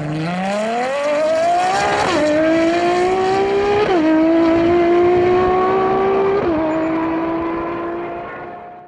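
Vehicle engine accelerating through the gears: its pitch climbs, drops at each gear change about two, four and six and a half seconds in, then fades and cuts off just before the end.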